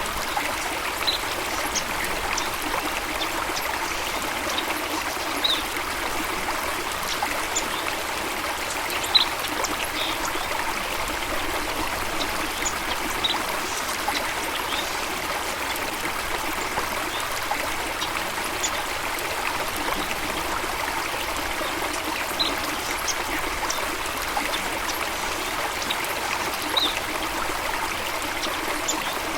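Stream water running and trickling steadily, with brief high ticks scattered through now and then.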